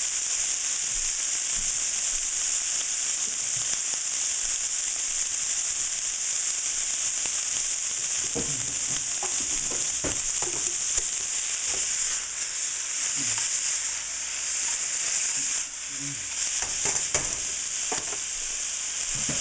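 Chicken pieces and red onion sizzling in hot oil in a nonstick frying pan, a steady hiss. From about eight seconds in there are a few short scrapes and knocks as the pieces are stirred about.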